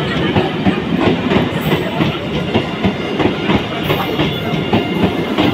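Electric suburban local train (EMU) running past close by at speed: a steady rush of running noise with its wheels clattering rapidly over the rail joints.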